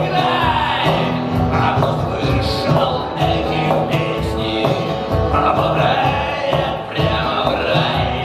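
Live acoustic guitar music over a steady beat, playing through a stretch of the song without lyrics.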